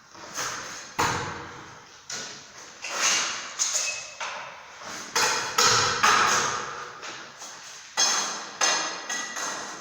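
Over a dozen sharp knocks of a hand tool striking masonry, at irregular spacing of roughly one or two a second, each fading with a short ring.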